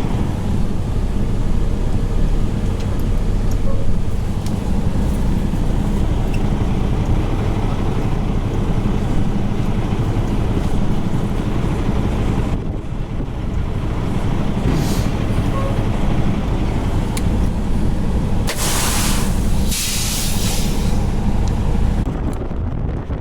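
Semi-truck diesel engine running with a steady low drone. Near the end come two short bursts of hissing air.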